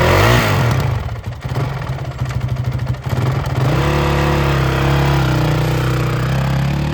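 Honda CRF450X's single-cylinder four-stroke engine running, revved briefly once near the start, then idling unevenly and settling into a steadier, fuller idle about four seconds in.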